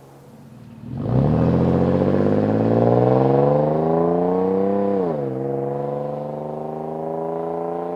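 Toyota 4Runner's 4.0-litre V6 through a Flowmaster FlowFX cat-back exhaust with a straight-through muffler. It idles quietly, then about a second in it accelerates hard, its pitch climbing steadily for about four seconds. The pitch drops sharply at an upshift and then keeps rising slowly in the next gear.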